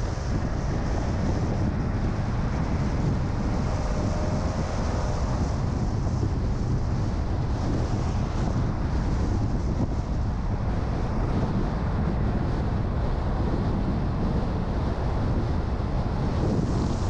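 A car driving: a steady low rumble of engine and road noise, with wind noise over it.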